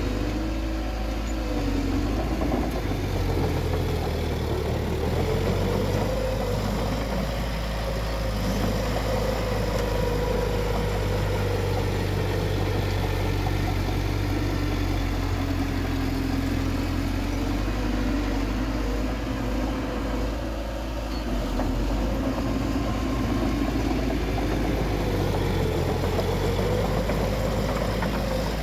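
Bulldozer's diesel engine running steadily under load, with a deep rumble and an engine note that rises and falls slowly as the load changes.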